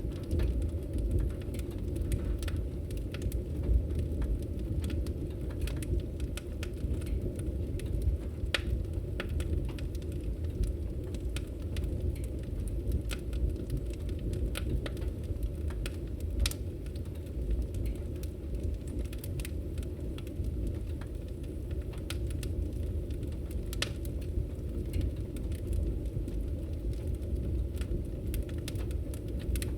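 Fireplace wood fire crackling, with irregular sharp pops over a steady low rush of the flames.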